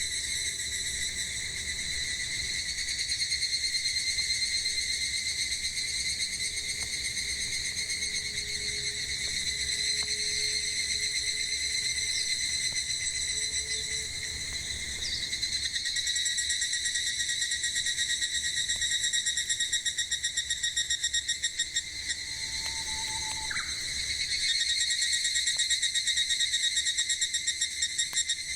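Cicadas singing in a steady chorus that pulses in places, with a few faint pops from a wood campfire and a brief bird call late on.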